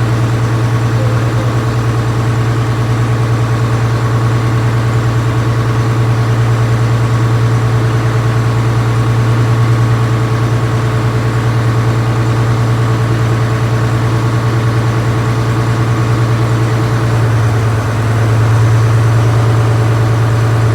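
Ferry boat's engine running with a steady low drone; the drone shifts slightly in pitch and grows a little louder about 17 seconds in.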